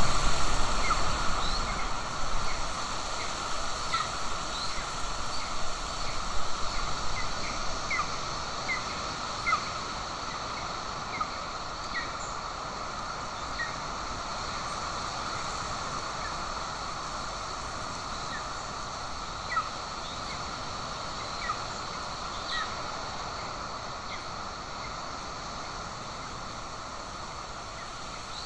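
Short high-pitched bird calls, coming in quick succession for the first ten seconds or so and then only now and then, over a steady background hiss.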